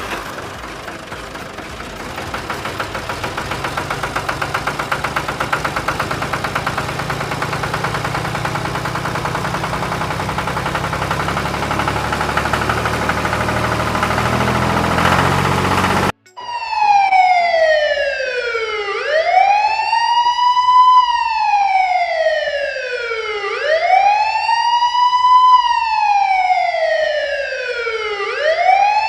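A motor runs with a fast, even pulsing and grows steadily louder for about sixteen seconds. It cuts off suddenly, and a wailing siren takes over, rising and falling slowly about every four to five seconds.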